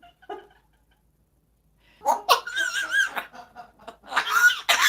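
Laughing in two bursts, one about two seconds in and another near the end, after a short quiet gap.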